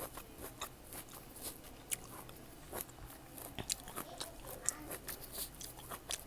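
Close-miked eating of fresh fruit: biting and chewing with irregular wet mouth clicks and small crunches.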